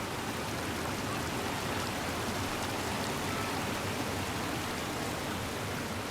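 Water of the Ocqueoc River pouring over the low limestone ledges of Ocqueoc Falls: a steady, even rush.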